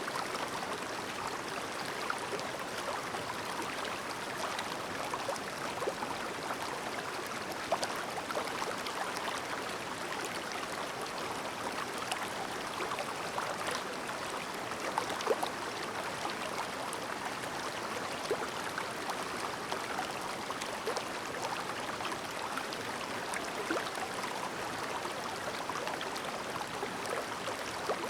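Shallow clear-water stream babbling steadily over stones, with small splashes and gurgles popping out of the flow here and there.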